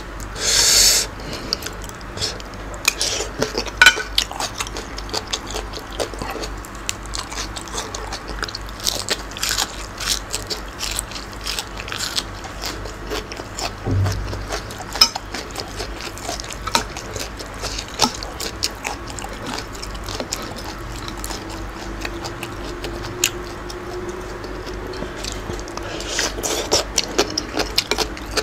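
Close-up chewing of crunchy raw vegetables and squid from a spicy Thai salad, with a dense, irregular run of wet crunches, clicks and mouth noises. A brief loud hiss of breath or slurp comes about a second in.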